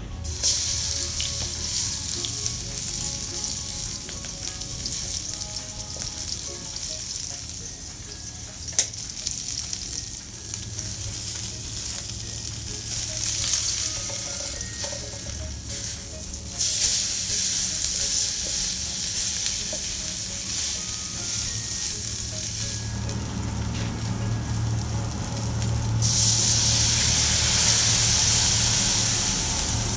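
Hamburger patties frying over a wood fire: a steady sizzling hiss that grows louder twice, most strongly near the end, with a single sharp click about nine seconds in.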